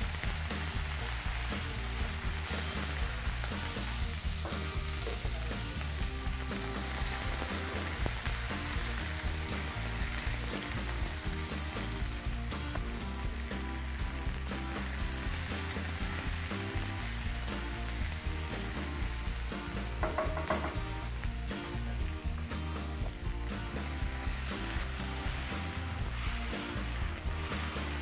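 Beef, onions and green beans sizzling steadily in oil in a wok over a gas flame, with some stirring.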